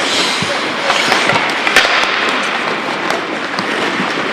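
Ice hockey play on a rink: a steady scraping hiss of skates on ice with a series of sharp clacks of sticks and puck, the loudest nearly two seconds in.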